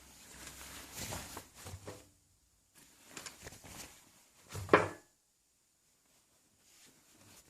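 Soft rustling and handling noises in two short spells, then a single sharper knock a little before the middle.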